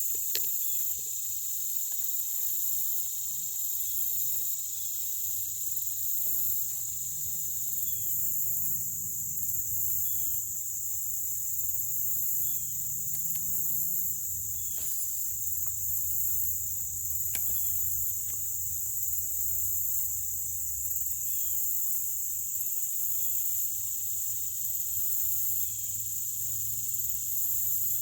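Steady high-pitched insect chorus with a pulsing shimmer above it. A few faint clicks come between about 8 and 18 seconds in.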